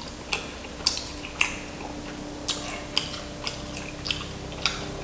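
Close-miked crunching of crispy fried chicken being chewed, eight or so sharp crunches about two a second, over a faint steady hum.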